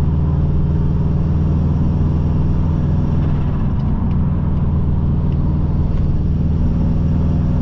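Subaru Impreza WRX's turbocharged flat-four engine running steadily at an even pitch, as at a constant cruising speed.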